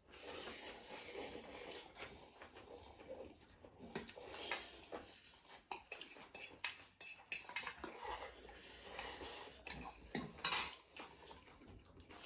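Cutlery clinking and scraping against dishes during a meal, in short, irregular clicks and scrapes.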